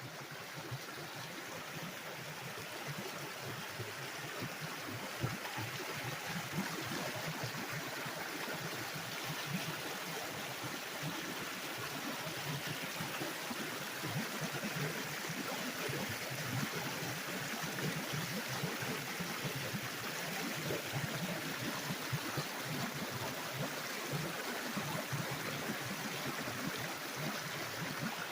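Small stream running steadily, an even rush of flowing water.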